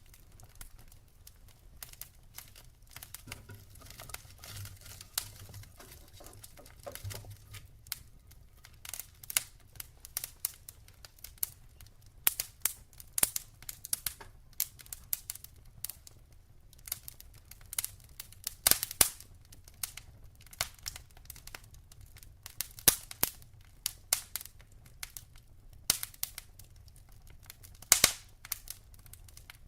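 Wood fire burning in a fireplace: burning logs crackle and pop in irregular sharp snaps over a faint low rumble, with a few louder pops about two-thirds of the way through and near the end.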